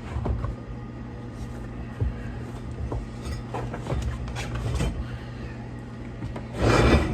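A lawn tractor tire and inner tube being worked onto a wheel rim by hand: scattered light knocks and rubber rubbing, with a louder rubbing scrape near the end, over a steady low hum.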